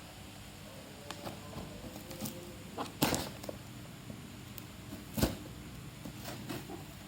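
Packaging of a box of LED light bulbs being handled: scattered rustles and light taps over a low steady hum, with two louder knocks about three and five seconds in.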